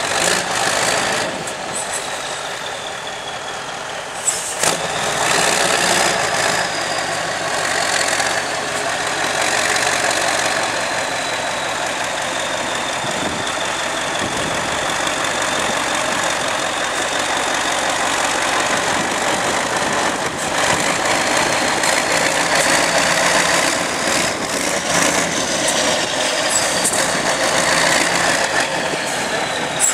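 Trial truck's engine running hard, with a high whine in it that rises and falls as the revs change.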